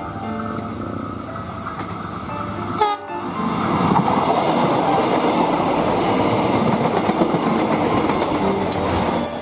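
Background music for about the first three seconds, then, after an abrupt cut, a diesel multiple unit train passing close by with a loud, steady rumble of engine and wheels on the rails.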